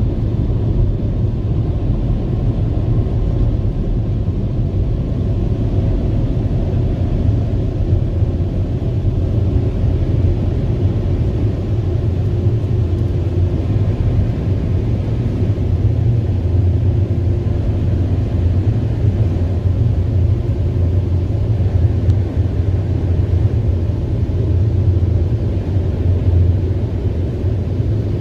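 Automatic car wash machine running: a steady low rumble with little high end and no breaks.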